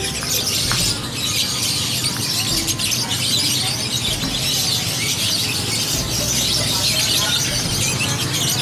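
Many caged songbirds chirping and twittering at once, a dense, unbroken chorus of short high calls, with a low murmur of voices underneath.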